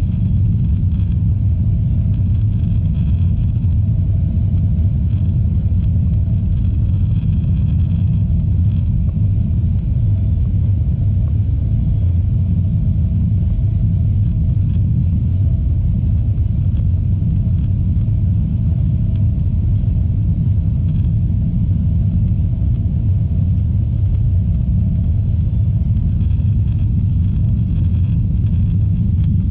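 Steady low rumble heard inside the passenger cabin of an Airbus A321-211 airliner, unchanging throughout, with no rises or falls.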